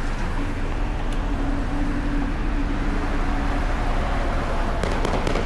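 Road traffic: vehicles running past, a steady low rumble, with a faint steady hum through the first half and a few clicks near the end.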